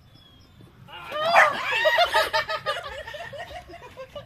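Laughter, a quick run of pulsed laughs that breaks out about a second in, is loudest at the start and trails off.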